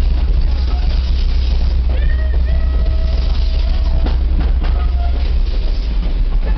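A moving train heard from on board: a steady, heavy low rumble. From about two seconds in there are faint held tones.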